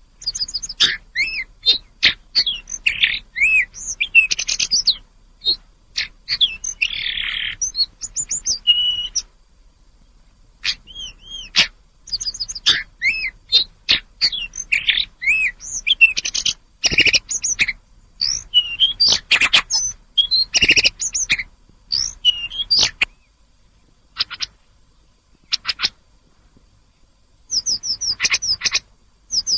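Tledekan gunung songbird singing fast, varied high-pitched phrases of chirps and sweeping whistled notes, in bursts broken by two short pauses. A few sharp clicks come through around the middle.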